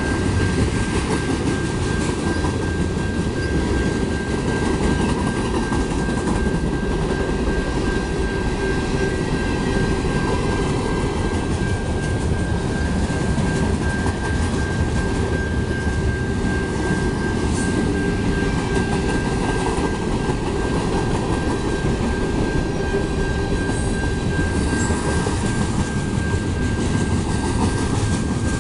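Freight train rolling through a grade crossing at speed: a steady rumble and clatter of steel wheels on the rails as the cars pass. Over it, a high crossing bell rings in steady rapid strokes.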